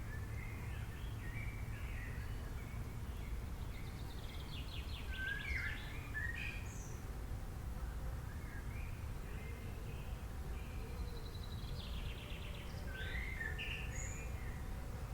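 Several birds chirping and calling, with two rapid trills, over a steady low rumble of background noise.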